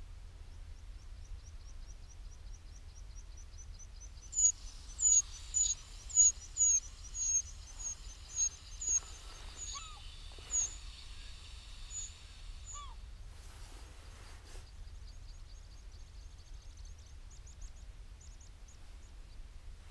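Wild birds calling in open grassland. A close bird gives a series of about ten sharp, high notes, roughly two a second, starting about four seconds in. Fainter high twittering comes before and after it, over a steady low wind rumble.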